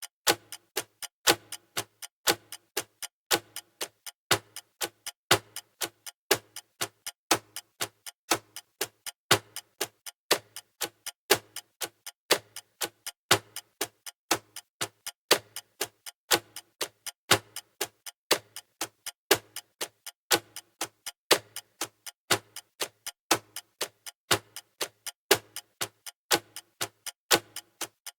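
Clock-ticking sound effect of a countdown timer: sharp, even ticks at about four a second, in an unbroken steady rhythm.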